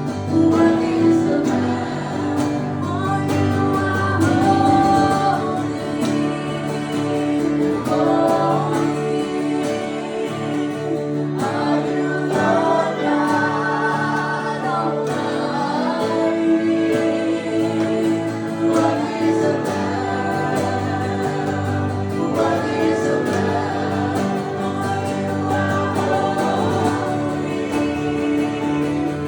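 Live acoustic worship music: singing in slow phrases with long held notes, over acoustic guitar.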